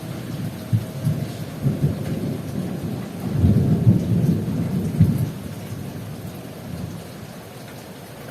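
Heavy rain falling steadily while thunder rumbles in several low peals, loudest about halfway through, then dying away near the end.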